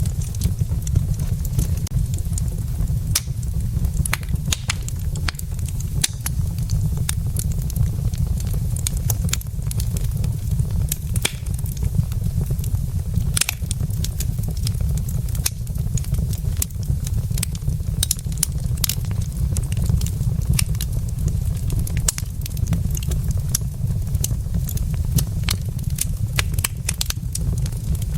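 Wood logs burning in a fireplace, crackling with frequent sharp, irregular pops over a steady low rumble.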